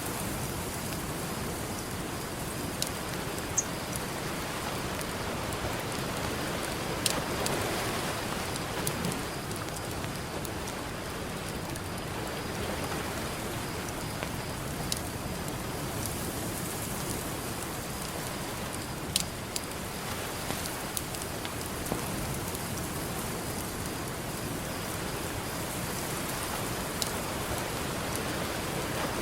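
Campfire crackling with scattered sharp pops, about a dozen in all, over the steady wash of ocean surf that swells louder about seven seconds in and again near the end.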